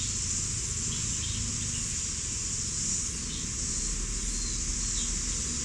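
Steady high-pitched insect chorus, with a few faint bird chirps over a low background rumble.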